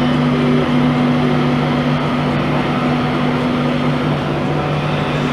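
Steady hum and rumble of electric trains in the station, with two constant low tones over an even noise. An InterCity 225 headed by a Class 91 electric locomotive has just arrived while another train pulls out.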